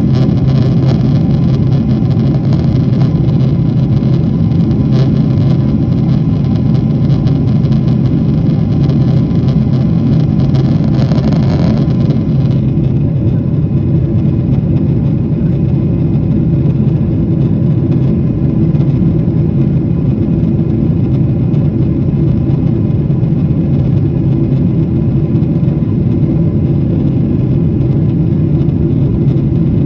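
Steady, loud engine drone with a deep hum and a few steady tones; the higher hiss above it drops away about 12 seconds in.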